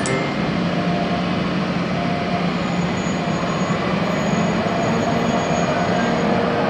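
A train running through a station, with a steady rumble of wheels on rail and a few faint steady tones.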